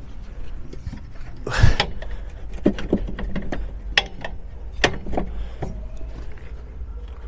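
Metal clicks and knocks of hand tools working on a shock absorber mounting bolt, with one louder clunk about one and a half seconds in.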